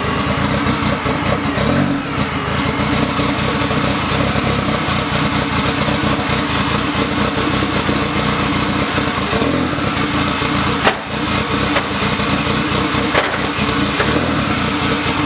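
Built, turbocharged Honda K-series four-cylinder engine running at a steady idle on its first start-up after the swap.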